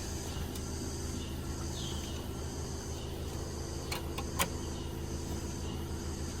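A steady mechanical hum with constant tones, with a few light clicks and taps about four seconds in.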